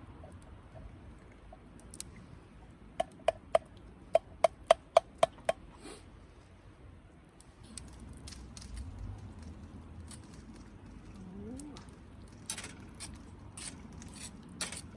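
A quick run of about nine sharp, ringing clicks, about four a second, starting about three seconds in, then a few scattered clicks and light clatter near the end.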